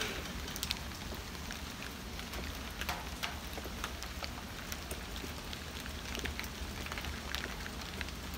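Steady rain falling, with scattered individual drops ticking sharply on a nearby surface.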